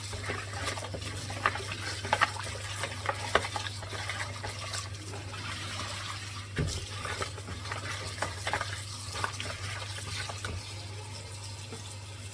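Chicken feet being handled in water: splashing and sloshing with many small clicks and knocks, over a steady low hum.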